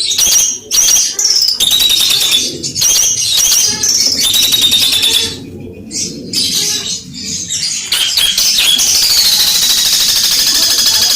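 Long-tailed shrike (cendet) singing loudly: a fast, harsh run of repeated high chattering notes. Its song carries the sparrow-fight mimicry (gereja tarung) prized in these birds. The song breaks off briefly about halfway through, then picks up again and runs on steadily.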